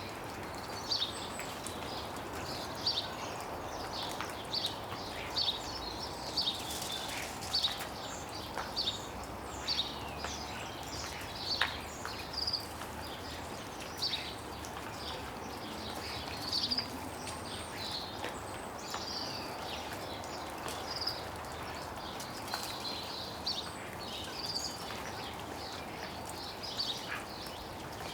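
Small garden birds chirping close up in a tree, short high calls coming every second or so, with the odd sharp tick of melting snow dripping off the branches over a steady background hiss.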